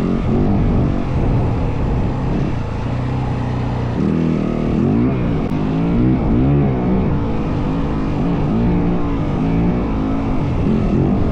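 Yamaha WR450F dirt bike's single-cylinder four-stroke engine under way, its pitch rising and falling over and over as the throttle is opened and closed.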